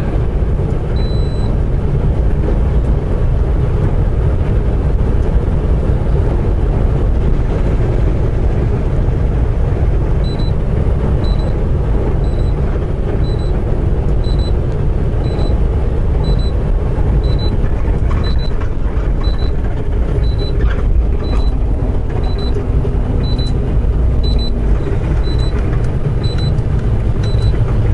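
Semi-truck cab noise at highway speed: steady engine and road rumble. A high electronic beep sounds once near the start, then repeats about once a second from about ten seconds in.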